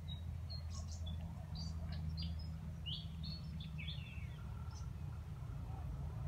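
Small birds chirping: short, high chirps and twitters, thickest in the first four and a half seconds, over a steady low rumble.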